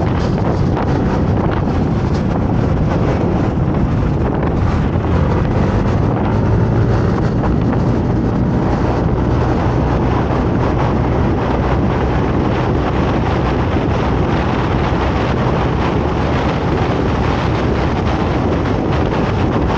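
Motorcycle riding under way: the engine's steady low hum under heavy wind rushing over the camera's microphone.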